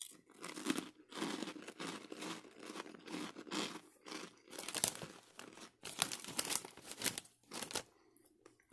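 Crunching of puffed fried pork rinds (pork clouds) being chewed close to the microphone: a rapid, irregular run of crisp crackles that stops near the end.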